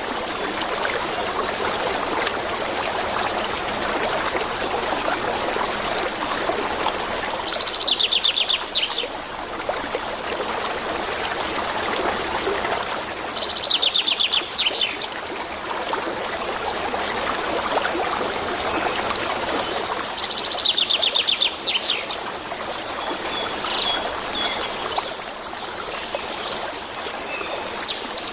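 A small songbird repeats a rapid trill of falling notes three times, each lasting about two seconds, with scattered short chirps near the end. A steady rush of running stream water plays throughout.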